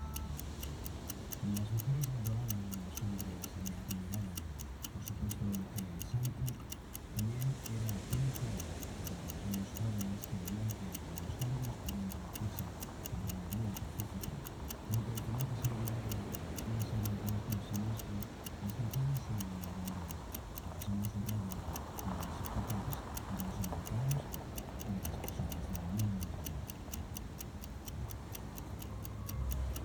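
Fast, even high-pitched ticking, several ticks a second, over a low, uneven rumble.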